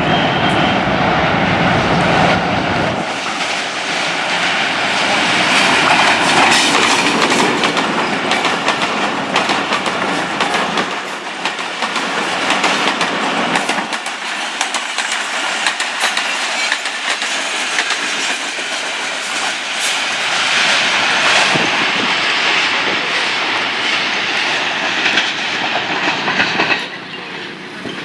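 Pakistan Railways diesel locomotive running past for the first few seconds, then a passenger train's coaches rolling by close up with a continuous clickety-clack of wheels over rail joints. The sound drops abruptly near the end.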